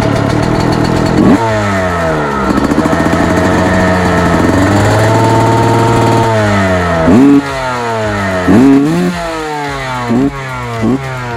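Motocross motorcycle engine revving, its pitch climbing and dropping again and again, holding one steady note for a stretch in the middle. In the second half come several short, loud throttle blips.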